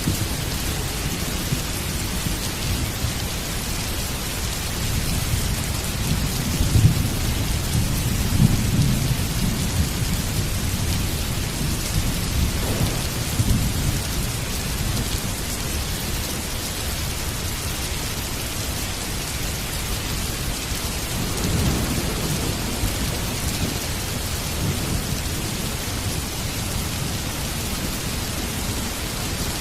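Heavy rain falling steadily, with low rolling thunder rumbling twice: from about six to ten seconds in, and again a little after twenty seconds.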